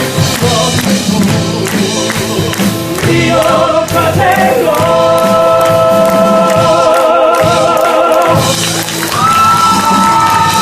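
A musical-theatre number: male voices singing in harmony over instrumental accompaniment. They hold long notes with vibrato in the middle, then rise together to a new held chord near the end.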